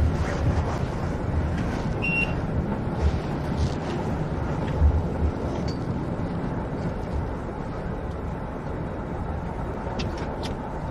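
Steady low rumble of a moving passenger vehicle, heard from inside the cabin, with a few faint clicks and rattles.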